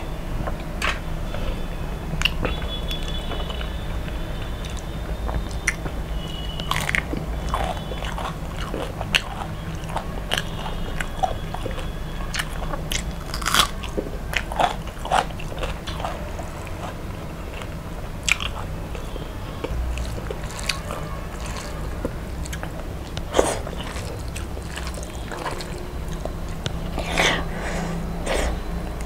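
Close-miked chewing and crunching of deep-fried fish and rice eaten by hand, with irregular wet mouth clicks and smacks over a steady low hum.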